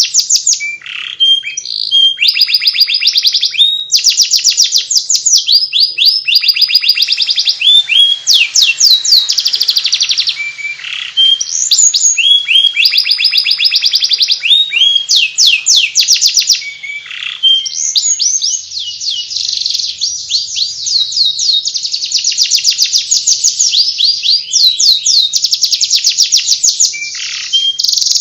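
Domestic canary singing in the fast, chattering 'ngeriwik' style: long runs of rapid repeated trilled notes, each run changing to a new note every few seconds with hardly a pause.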